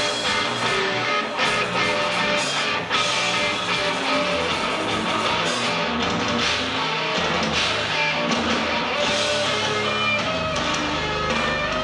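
Live noise-rock band playing loud and without a break, electric guitar to the fore over bass and drums.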